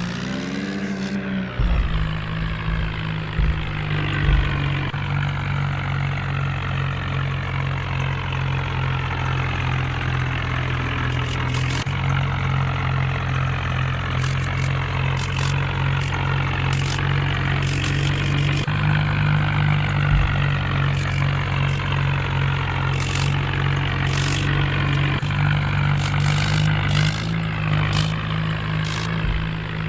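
A heavy diesel engine running steadily under load. Its note shifts slightly a few times, with scattered short metallic clicks over it.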